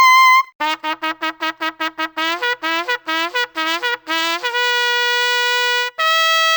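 Trumpet playing solo. A high held note ends just after the start, followed by a quick run of short, detached notes jumping between a low and a higher pitch. Then come two long held notes, the second a little higher.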